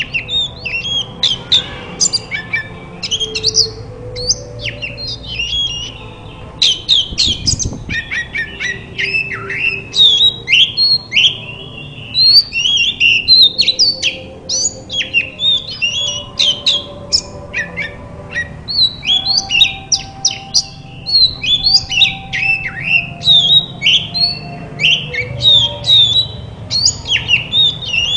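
Oriental magpie-robin (kacer) in full song: a fast, unbroken stream of short, varied whistled and chattering notes, many sliding down in pitch.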